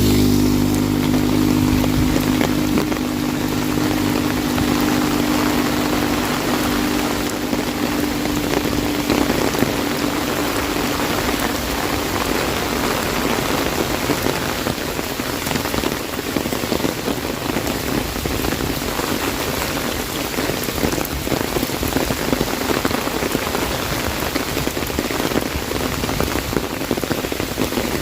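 Heavy rain pattering densely on an umbrella, a steady rush of drops. A low engine hum fades away over the first ten seconds or so.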